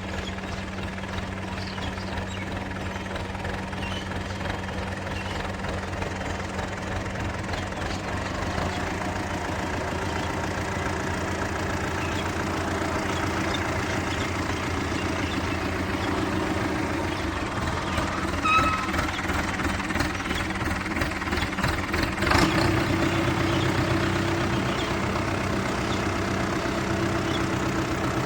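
Tractor engine running steadily, gradually getting louder, with one sharp knock about three-quarters of the way through.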